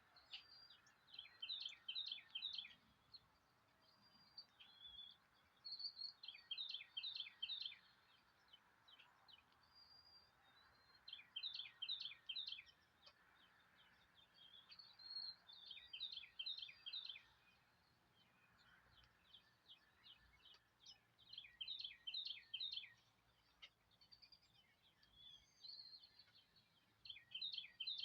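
Faint birdsong: one bird repeats a short song of rapid, downward-sweeping notes, a phrase of about a second and a half every five seconds or so, with scattered single chirps from other birds between.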